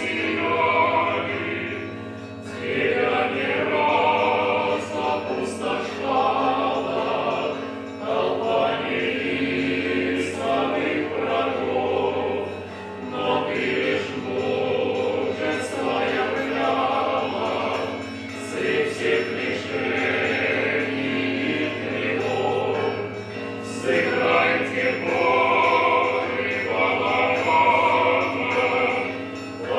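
Background music: a choir singing slow phrases over a steady low drone.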